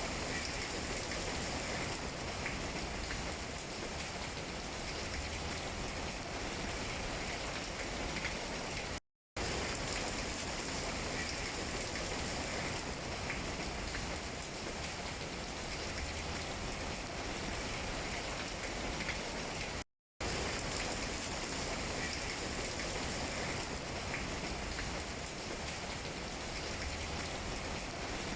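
Steady rain falling on tree leaves: an even patter with small drop ticks. The sound drops out to silence for a fraction of a second twice, about nine and twenty seconds in.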